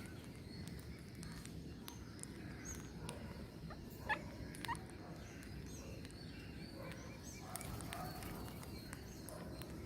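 Birds chirping and calling over a steady low background noise, with two louder short calls about four seconds in.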